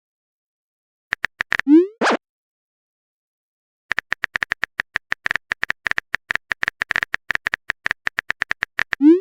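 Phone-chat sound effects: a short run of typing clicks, then a rising bloop ending in a pop about two seconds in, as a message is sent. After a silent pause comes a longer run of rapid typing clicks, about five seconds of them, closed near the end by another rising bloop.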